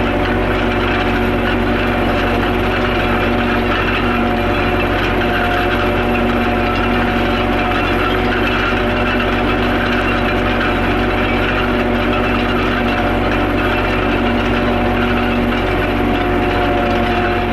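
Tractor engine running steadily at constant revs, an even drone with a few held tones and no change in speed.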